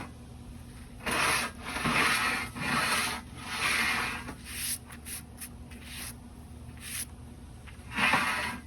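A run of about five hand-worked rubbing strokes over a surface, then a few light clicks and one more stroke near the end.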